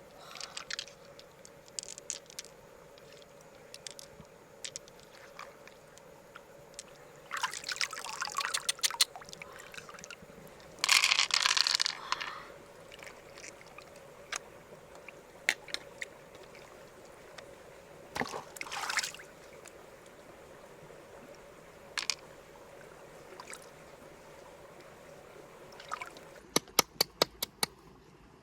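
Water being poured or splashed in two short bursts, among scattered small clicks and taps, with a quick run of clicks near the end. A faint steady hum runs underneath.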